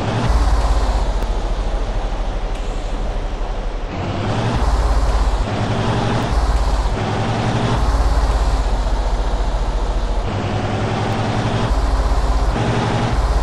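Heavy truck engine running under load, its note rising and then dropping back in steps every second or two.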